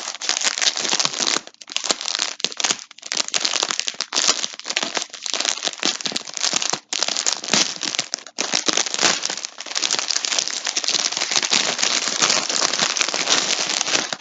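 Yarn packaging crinkling and rustling continuously as a skein is handled and unwrapped, with a few brief pauses.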